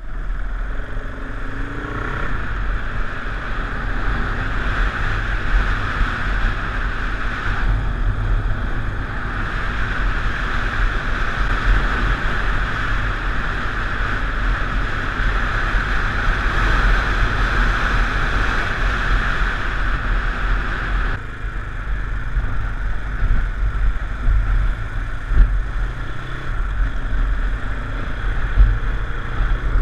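Wind buffeting a GoPro Hero3 in its closed plastic housing on a moving motorcycle: a heavy low rumble with a steady hiss that drowns out the engine. A brief rising engine note shows near the start, and the hiss drops away suddenly about two-thirds of the way through.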